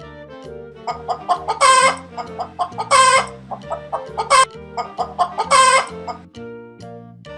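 A hen clucking: four loud, short calls about a second and a half apart, over light children's background music.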